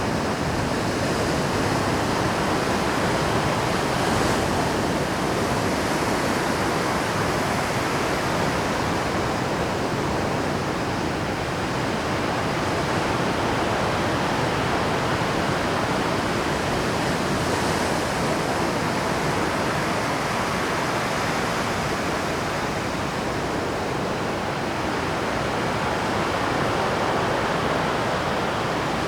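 Rough Pacific surf breaking on a rocky shore at high tide: a loud, continuous wash of crashing water that swells slightly every so often.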